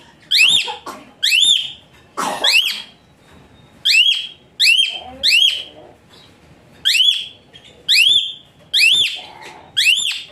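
A bird calling over and over in short, shrill notes that each sweep up and then drop, often in quick pairs, about one to two notes a second.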